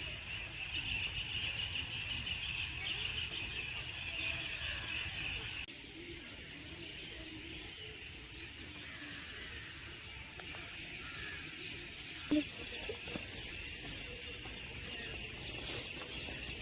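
A chorus of many wild birds calling and chattering together, thickest in the first few seconds, over a steady high-pitched whine. A single brief knock comes about three quarters of the way through.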